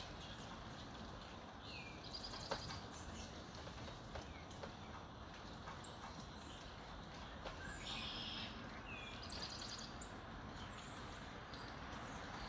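Several songbirds chirping and trilling, with short repeated notes and downward-swooping calls, over a steady background hiss of outdoor ambience. A few sharp clicks stand out, the loudest about two and a half seconds in.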